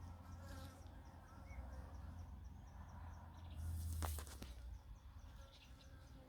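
Insects outdoors: a low buzzing, loudest about three and a half to four seconds in, over a quick high chirping that repeats several times a second. A brief rustle comes about four seconds in.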